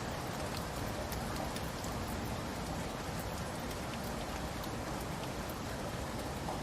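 Steady rainfall: an even hiss of rain with the ticks of single drops landing on a surface.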